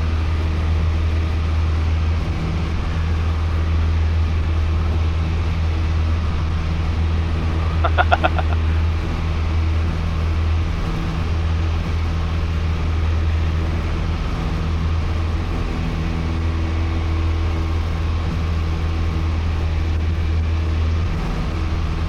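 Light single-engine piston airplane's engine and propeller droning steadily in the cabin at climb power just after takeoff, with a brief high-pitched chirp about eight seconds in.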